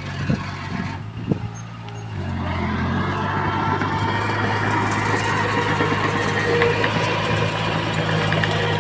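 Diesel engine of heavy construction machinery running steadily, with two sharp knocks in the first second and a half, then growing louder from about two seconds in as it works harder.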